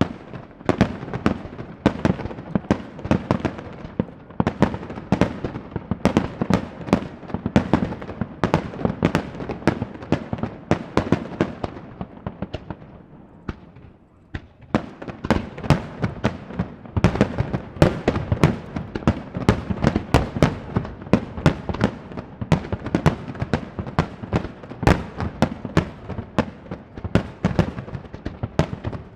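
Aerial fireworks shells bursting in rapid succession, several sharp booms and crackles a second, with a brief lull about halfway through before the barrage picks up again.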